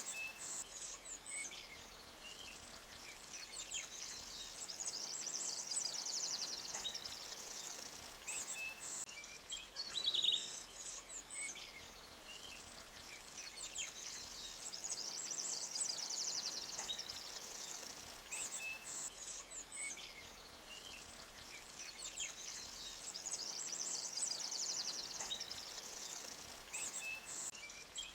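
Forest birds singing in trills and short chirps over a faint, steady rush of stream water. The same run of bird phrases comes back about every ten seconds, as in a looped ambience recording.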